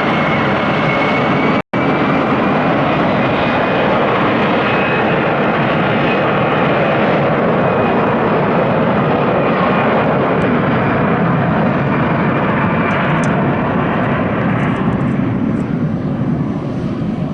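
StarFlyer Airbus A320 jet airliner taking off, its twin jet engines at takeoff power making a loud, steady roar, with a faint whine rising in pitch over the first few seconds. The sound cuts out for an instant about a second and a half in, and the roar fades near the end as the aircraft moves away.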